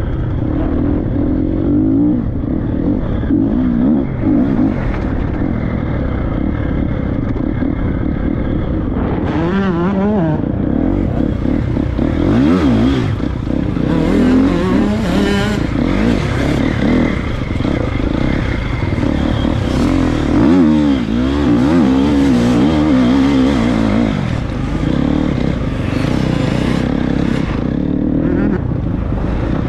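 Triumph 250 motocross bike's single-cylinder four-stroke engine being ridden hard, its pitch rising and falling over and over with the throttle. Hissing noise comes and goes over it.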